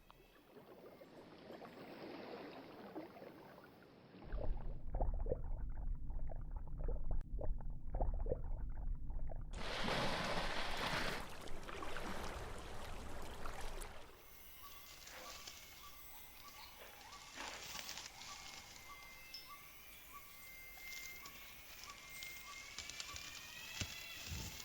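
Borneo rainforest ambience in changing scenes: rustling and sloshing with a low rumble and many small clicks, then a quieter stretch where an animal call repeats a short note about once a second, joined near the end by rising whistled calls.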